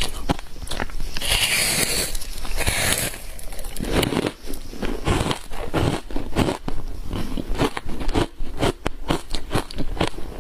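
A person biting into and chewing frozen matcha green tea powder ice, close to the microphone: dense sharp crunching and crackling, with a hissing crumble between about one and three seconds in.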